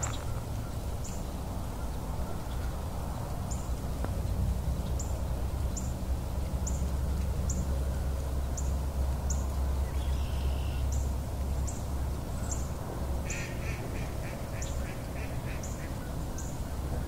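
Birds calling outdoors. One gives a short, high chip a little more often than once a second, and a quick run of rapid calls comes near the end. Under them runs a steady low rumble.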